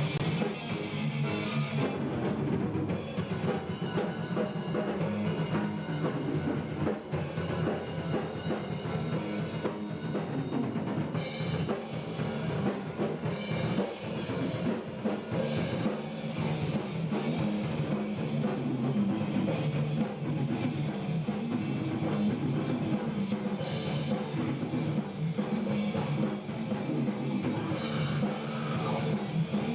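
Rock band playing a song together live in the studio: a drum kit with bass drum, electric guitars and bass guitar, steady and full throughout.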